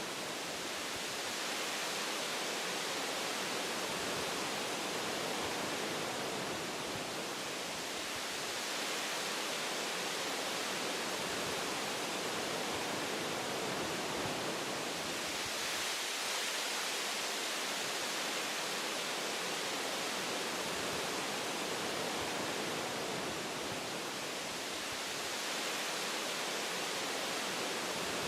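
Wind blowing through forest trees: a steady rushing hiss of leaves and branches that swells and eases slowly every several seconds.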